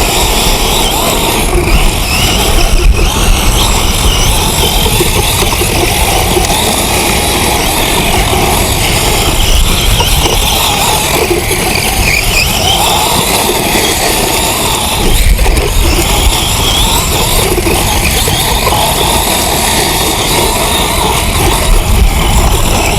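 Brushless electric RC short course truck (X-Ray XB8 EC on a 4S sensored system) driving hard over loose desert ground: motor whine with tyres churning dirt, loud and continuous.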